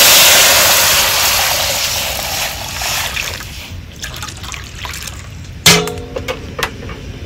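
Garlic, lemongrass and chilli frying with fish sauce in a hot pan. A loud sizzle dies down over about three seconds, then one sharp knock comes near the end.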